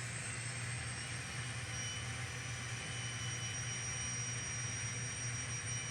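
N scale model diesel locomotive running steadily at low speed, its sound-equipped decoder giving a constant engine drone with a thin high whine over it.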